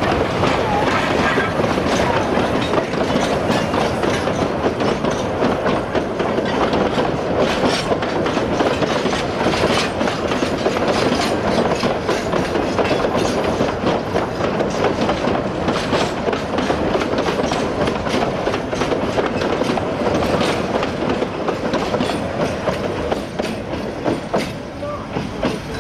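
Narrow-gauge steam train's coaches running past close by, their wheels clicking over the rail joints.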